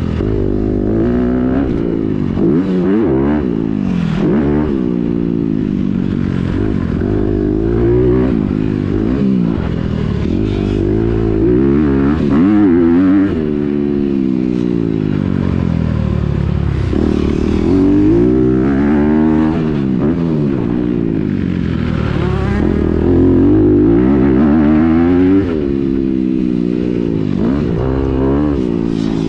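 Honda CRF250R's four-stroke single with a titanium Yoshimura exhaust, repeatedly revving up and falling back as the rider accelerates and shifts gears, the pitch climbing and dropping every few seconds.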